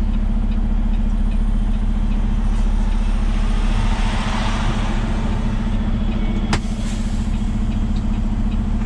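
Heavy truck's diesel engine idling steadily, with a single sharp click about two-thirds of the way through.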